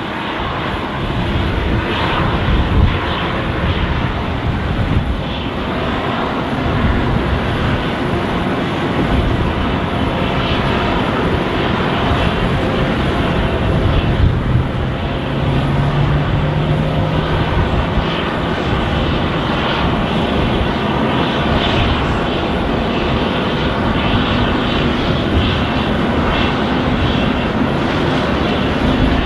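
Airbus A330-300's GE CF6-80E1 turbofan engines running with a loud, steady jet roar and a faint steady whine.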